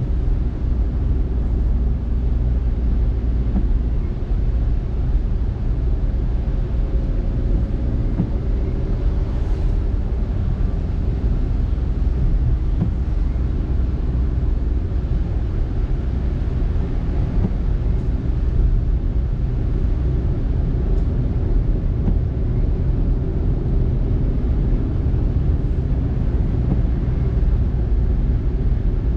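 A car driving along at a steady pace: a low, even drone of road and engine noise that holds steady throughout.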